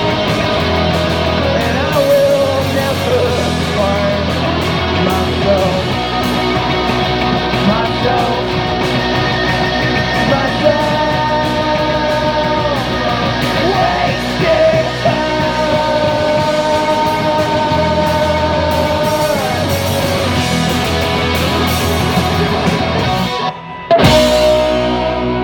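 Rock band playing live: singing over guitar and band. The music dips briefly near the end and comes straight back in.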